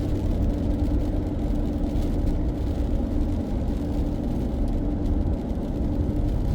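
Steady engine and road noise of a car driving, heard from inside the cabin: an even low rumble with a constant hum.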